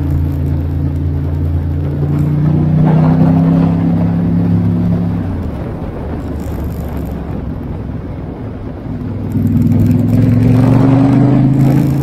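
Ducati XDiavel S's L-twin engine pulling under acceleration, rising in pitch over the first few seconds and dropping away about five seconds in, then rising again from about nine seconds to near the end.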